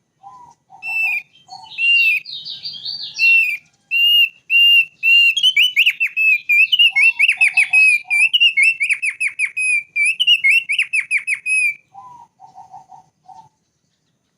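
Thick-billed white-eye singing: a run of clear, repeated whistled notes that breaks into fast, rattling downward-swept trills and stops about twelve seconds in. Short, lower, burry calls come in at the start, in the middle and again near the end.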